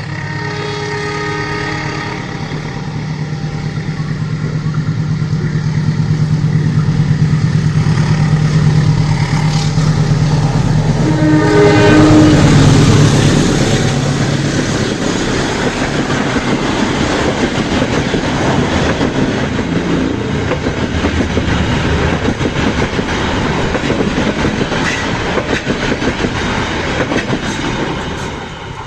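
Diesel-hauled passenger train passing. The locomotive's engine drone builds as it approaches, and its horn sounds about half a second in and again around eleven seconds in. The carriages then clatter past over the rails until the train has gone, near the end.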